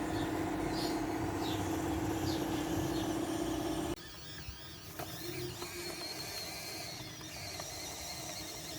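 Electric drive motors and gearboxes of a Huina radio-controlled construction model running with a steady whine, cutting off suddenly about four seconds in.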